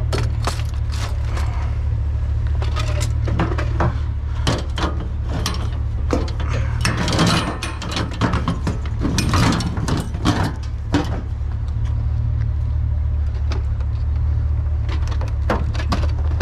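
Repeated knocks, clanks and rattles of scrap being handled, mostly in the first eleven seconds, over the steady low running of an idling vehicle engine.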